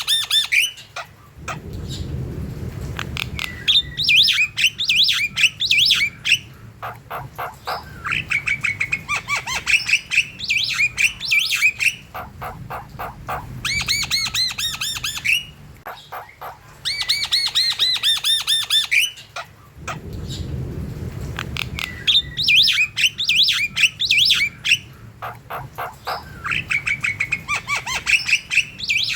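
Javan mynas (jalak kebo) in full song: repeated bouts of fast, harsh chattering notes mixed with squawks and short whistles, each bout lasting a few seconds with short pauses between. A low rumble of noise lies under the calls a couple of seconds in and again about twenty seconds in.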